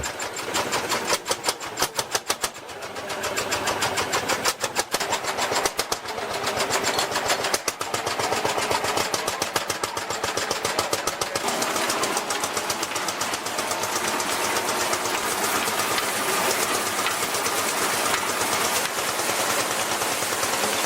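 Vintage engine running with a fast, even knocking beat that quickens and merges into a steady clatter.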